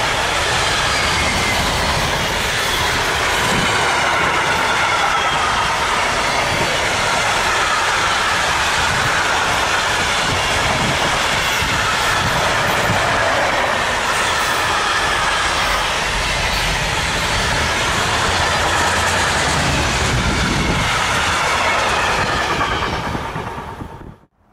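Container freight wagons rolling past at speed: a loud steady rumble of wheels on rail with faint wavering wheel squeal, fading away near the end as the last wagons go by.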